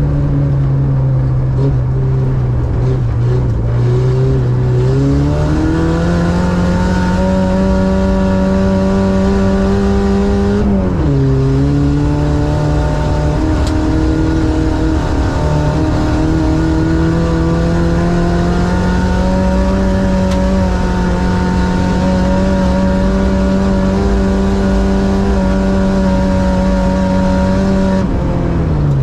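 Ice-racing car's engine heard from inside the car, pulling up to a higher steady drone a few seconds in. The revs drop sharply once about a third of the way through, build back up and hold, then fall off near the end.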